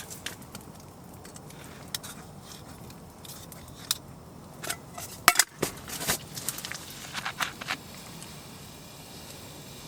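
Scattered small clicks and knocks of gear being handled, the loudest a few sharp knocks about five seconds in, over a low steady background.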